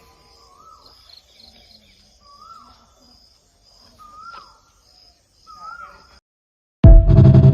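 Insects chirping steadily with a high pulsing chirr, while a bird repeats a short rising-and-falling whistle four times. The sound cuts off about six seconds in, and loud music starts near the end.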